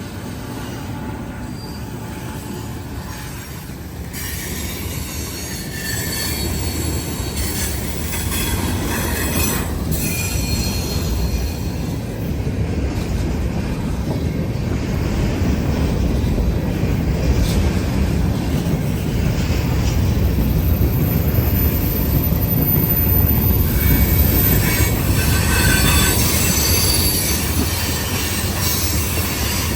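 Freight cars of a long CN freight train rolling past, a steady low rumble of wheels on rail with intermittent high-pitched wheel squeal.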